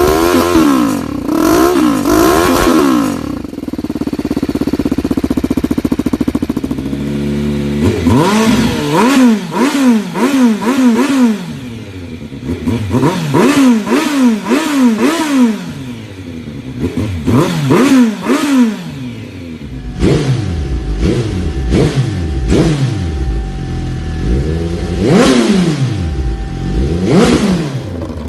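Motorcycle engine breathing through an SC Project CRT slip-on race muffler, revved again and again in quick throttle blips, the pitch climbing and falling with each blip. About 4 to 7 seconds in it settles to a lower, steadier run before the revving resumes.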